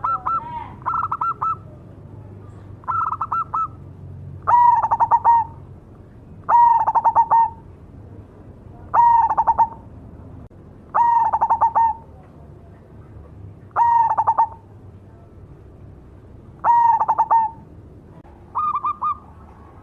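Zebra dove (perkutut) cooing over and over. Each call is a quick stuttering run of notes, one roughly every two seconds, and the calls grow louder and slightly lower after the first few.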